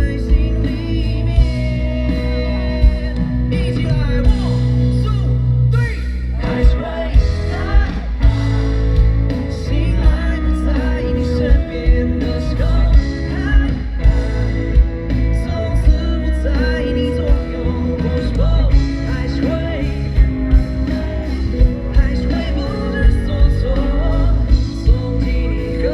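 Live band playing a pop song: a male singer's voice over guitar, heavy bass and drums with a steady beat, recorded loud from the audience.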